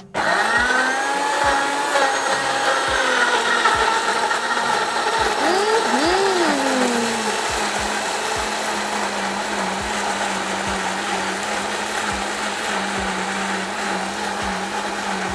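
Countertop blender switched on: the motor starts suddenly and runs steadily, blending a load of banana, strawberries, raspberries and water.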